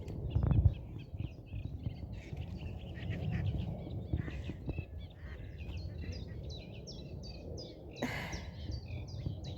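Small songbirds chirping, a steady run of short high notes, over a low rumble of wind or handling noise on the microphone, with a short bump about half a second in and a brief rustle near the end.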